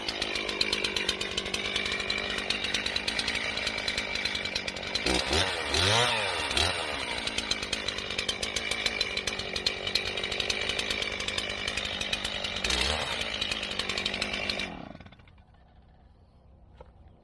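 Chainsaw engine running at idle, revved up and back down a few times around the middle and once more near the end, then shut off about fifteen seconds in.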